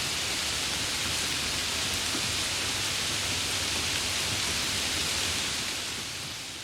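Steady rain, an even hiss without separate drops or thunder, that starts to fade out gradually near the end.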